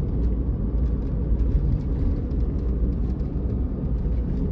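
Steady low rumble of a car on the road: engine and tyre noise.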